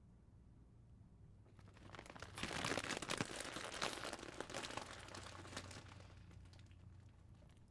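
A bag of chips crinkling and rustling as it is handled. It starts about two seconds in, is loudest for a couple of seconds, then thins out.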